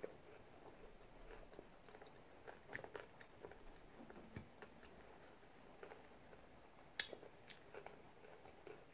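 Faint close chewing of a mouthful of crunchy hard-shell taco, with scattered small crunches and one sharp click about seven seconds in.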